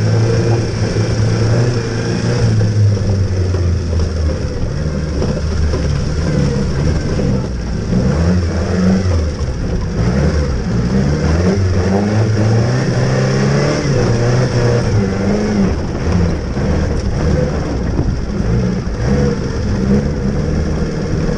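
1928 Austin 7's small four-cylinder side-valve engine running under load as the car drives up a trial section. Its pitch rises and falls repeatedly through the middle of the clip as the throttle is worked.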